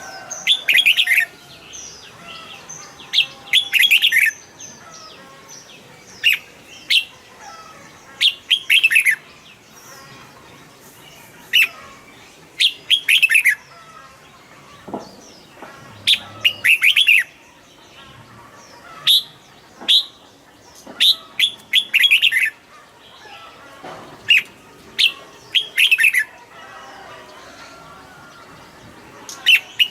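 Red-whiskered bulbul singing short, bright warbled phrases, each under a second long, repeated again and again with pauses of a second or two between them.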